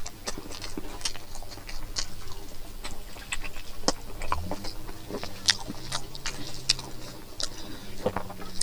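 Close-up mouth sounds of a person chewing a mouthful of rice and pork: irregular wet clicks and smacks, several a second.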